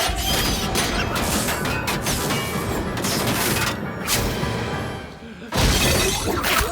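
Film soundtrack: music mixed with crashing, shattering impact effects, dense throughout, dipping briefly and then surging loud about five and a half seconds in.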